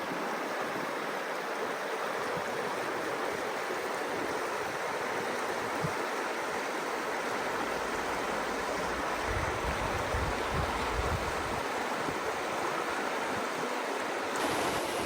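River water rushing steadily over rocks, an even, unbroken rush, with a brief low rumble on the microphone about nine seconds in.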